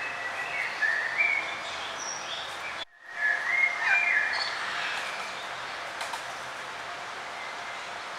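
Songbirds singing in short repeated chirping phrases over a steady background hiss, with a brief cut to near silence about three seconds in.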